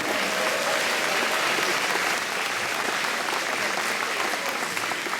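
Audience applauding in a large hall, a steady wash of many hands clapping that thins out near the end.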